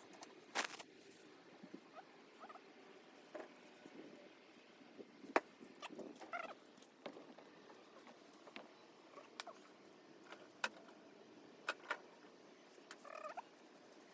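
Scattered sharp clicks and light knocks at irregular intervals, the loudest about five seconds in, with a few short squeaky chirps.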